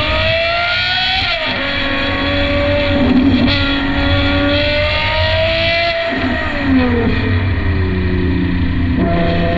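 Ferrari 812 GTS's V12 through a Novitec Inconel valved exhaust, revving up under acceleration. The pitch drops sharply at an upshift about a second in, then climbs again. It falls away as the car slows from about six seconds, with a short rev jump near the end.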